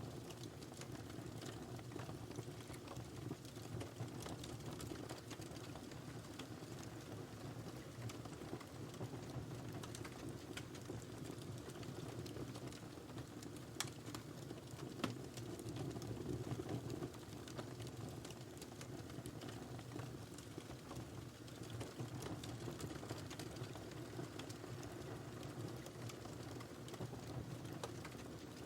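Wood fire burning in a fireplace: a steady low rush of flame with scattered crackles and two louder pops about halfway through.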